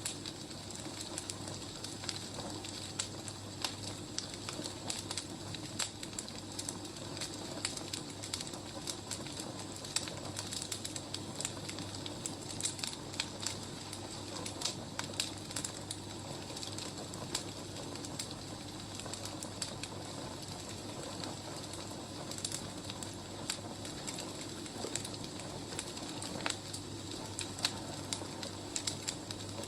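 Wood fire burning, with irregular crackles and pops over a steady low hiss.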